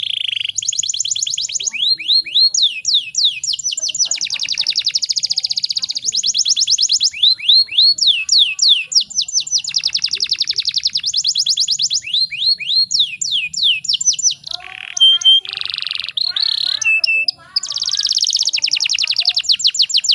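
Domestic canary singing: long, very fast trills and rolls alternating with quick sweeping whistled notes, high-pitched throughout, with a choppier stretch of short chirps past the middle.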